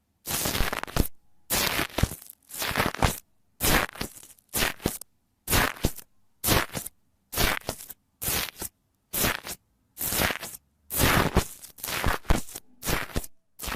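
Slime being squeezed and pressed by hand, giving a crisp crunching crackle in short strokes about once a second, with silence between.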